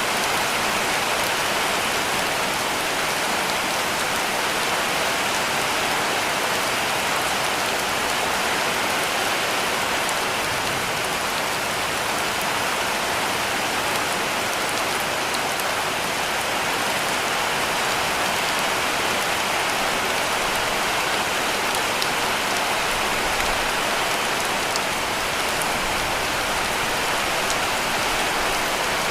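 Heavy rain falling steadily on a cabin roof: a dense, even hiss with scattered drop ticks.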